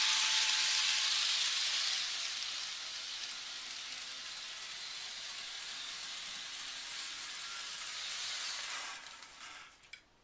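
Toy electric train set running on its track at full speed, a steady hissing whir that gradually eases and stops about nine seconds in. A few sharp clicks follow near the end.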